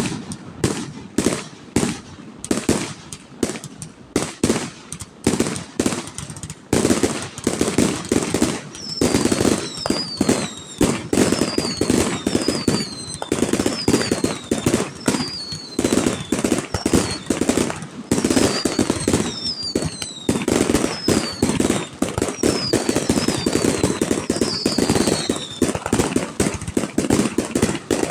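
Fireworks display going off in a rapid, continuous barrage of bangs and crackles. Short high whistles that fall in pitch repeat through the middle, and the barrage stops right at the end.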